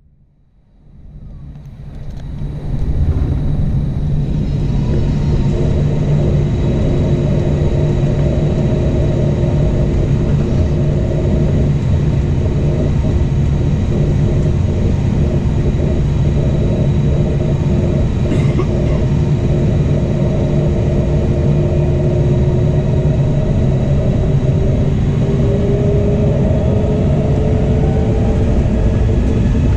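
Airbus A320 takeoff heard from inside the cabin: a loud, steady engine and airflow rumble that swells up over the first few seconds. Near the end a faint tone slowly rises in pitch.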